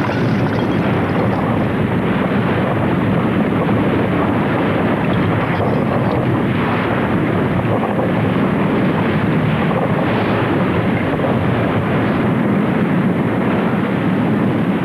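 Volcanic eruption: a steady, loud rushing rumble with no distinct bangs.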